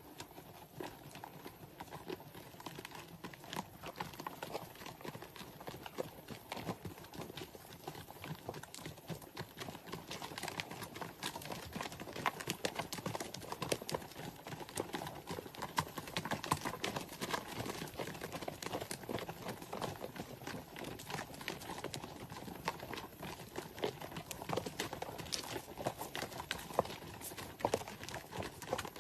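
Horse hooves clip-clopping: a quick, irregular run of sharp hoof strikes that grows busier and louder about a third of the way in.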